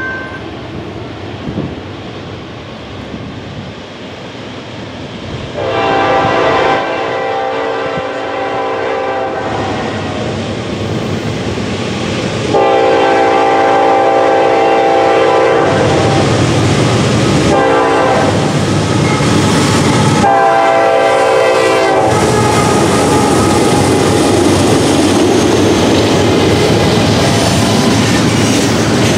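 Norfolk Southern GE AC44C6M diesel locomotive sounding its horn in a series of blasts as the train approaches, the first two long and the later ones shorter. From about 22 seconds in, a loud steady rumble and rattle of double-stacked container well cars rolling past close by.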